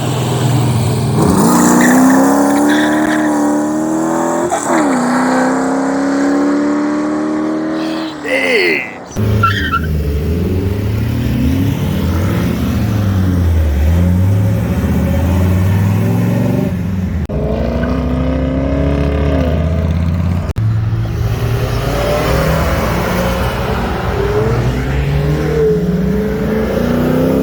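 Car engines revving hard as cars accelerate away one after another, pitch climbing through the gears with a shift about four seconds in. After about nine seconds it changes to a deeper, lumpier engine note that rises and falls with throttle blips.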